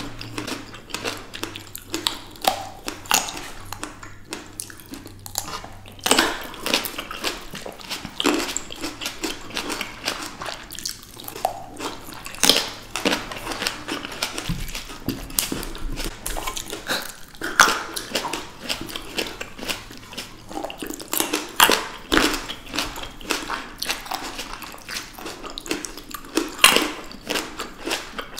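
Close-miked biting and chewing of fresh green grapes, a continuous run of irregular short clicks and crunches from mouths working the fruit.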